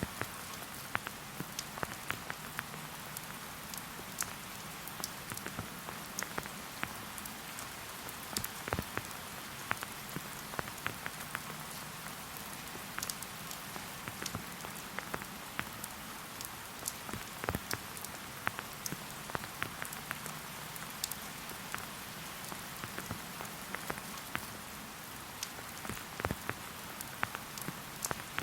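Steady rain falling, an even hiss broken by many irregular, sharp taps of single drops striking nearby surfaces.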